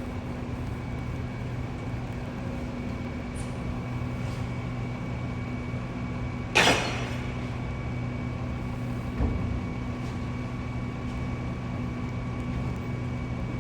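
Steady mechanical hum of a city street, made of several held tones over a noisy background. A short sharp hiss comes about six and a half seconds in, and a faint low thump around nine seconds.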